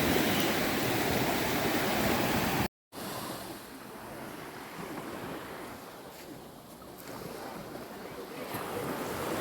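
Sea surf washing with wind rumbling on the microphone. The sound drops out briefly at a cut about three seconds in and comes back quieter.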